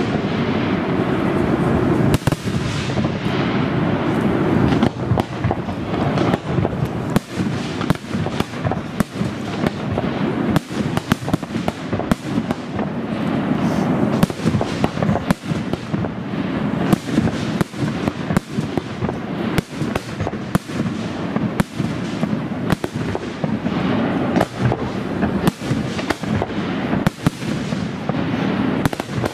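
Aerial fireworks bursting in rapid succession: a dense run of sharp bangs, several a second, over a continuous rumble.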